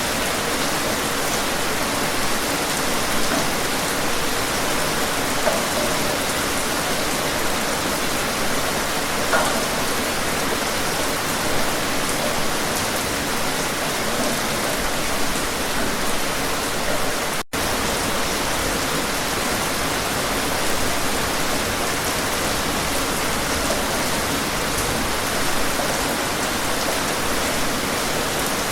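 Steady rain falling, an even hiss with scattered drops. The sound cuts out for a split second about two-thirds of the way through.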